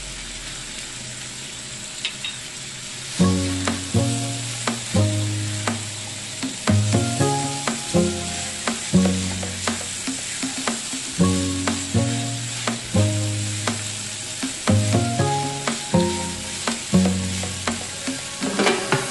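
Cubed butternut squash sizzling as it fries in a pan, stirred with a silicone spatula. Background music with a bass line and melody comes in about three seconds in.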